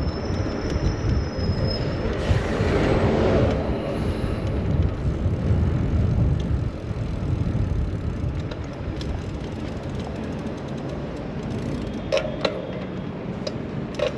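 City street traffic heard from a moving bicycle, under a heavy low wind rumble on the microphone; a vehicle passes close about two to four seconds in, and a few sharp clicks come near the end.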